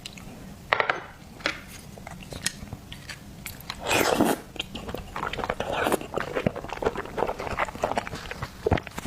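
Close-miked eating of seafood: biting and chewing with crunching and many short wet clicks, and a louder, longer burst of noise about four seconds in.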